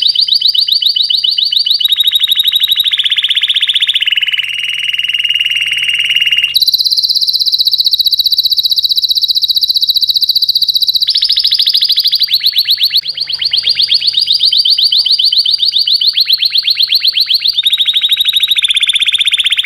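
Domestic canary singing: loud, high-pitched rapid trills that switch to a new rolled phrase every few seconds without a break.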